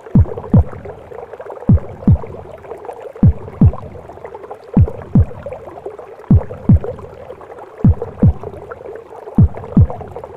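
Simulated womb sound: a slow heartbeat of paired low thumps, one lub-dub about every one and a half seconds, over a steady rushing whoosh.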